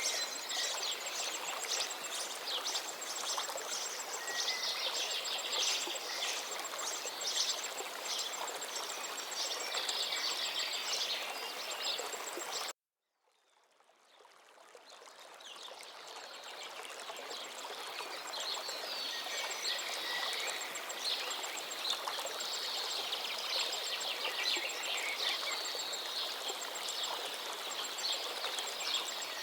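Forest river flowing steadily, with many songbirds chirping and singing over it. The whole sound cuts out abruptly about thirteen seconds in and fades back in over the next few seconds.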